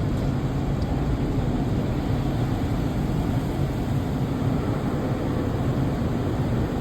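Car wash machinery running: a steady rushing noise with a low rumble.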